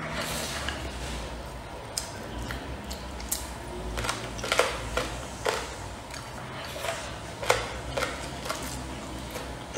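Close-miked chewing of mouthfuls of rice and braised pork belly, with scattered sharp wet mouth clicks, a few of them louder.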